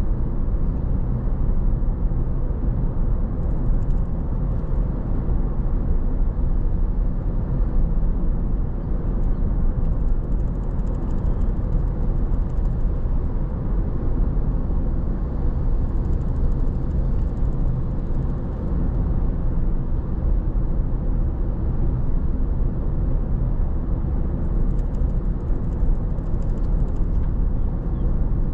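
Steady road noise from a car driving along: tyre and engine rumble, deep and even throughout.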